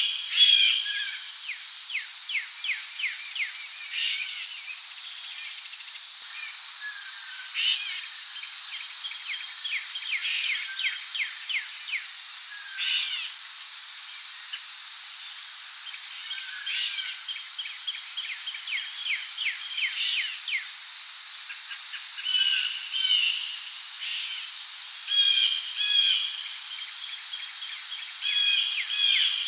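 Rainforest ambience: a steady high-pitched drone of insects such as crickets, with birds calling over it in quick trills and short chirps and whistles, coming and going every few seconds.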